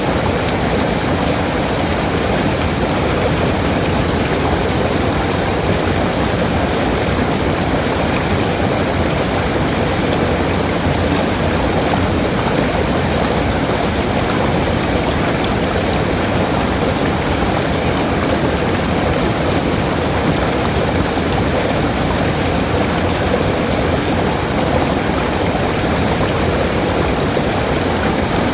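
Waterfall: water falling and splashing in a steady, unbroken rush with no change in level.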